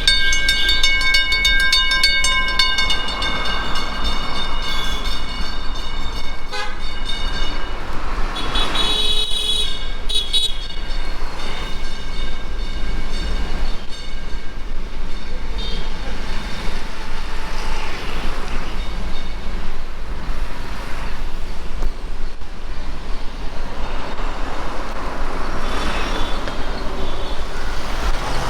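A vehicle horn sounds a long steady note for about the first four seconds, and a shorter horn follows around nine seconds in, over steady street traffic and wind rumble.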